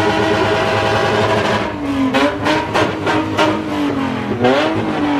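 A car engine held at high revs, then blipped rapidly about half a dozen times, with sharp pops between the revs.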